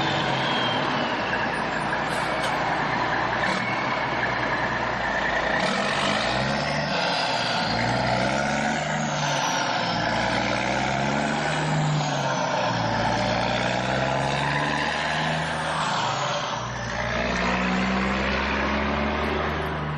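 Vehicle motor running continuously, with a whining pitch that repeatedly rises and falls.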